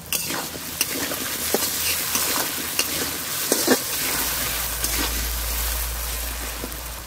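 Potato wedges sizzling in hot oil in an iron kadai, stirred with a spatula that scrapes and clicks against the pan. The sizzle jumps louder just after the start as the stirring begins.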